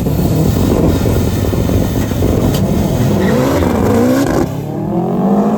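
Drag-racing vehicles accelerating hard at full throttle. The engine note climbs, drops at a gear change about four and a half seconds in, and climbs again.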